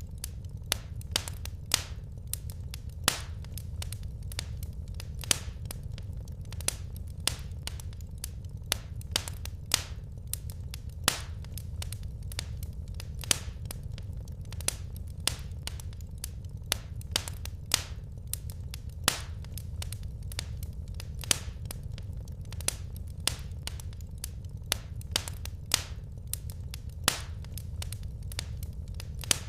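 Wood fire burning in a fireplace: irregular sharp crackles and pops of burning logs, several a second, over a steady low rumble of the flames.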